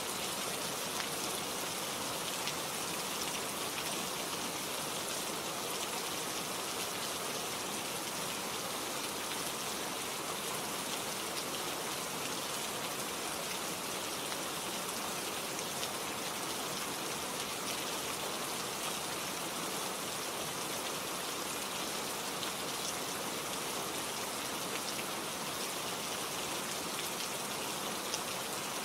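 Steady rain falling, with fine patter of drops hitting surfaces close by.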